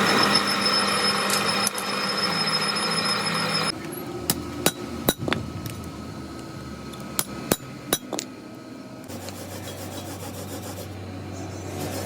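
Hand work on a truck clutch plate during relining: a few seconds of dense rasping, then about eight sharp hammer taps in two groups of four, then a steady low hum in the last few seconds.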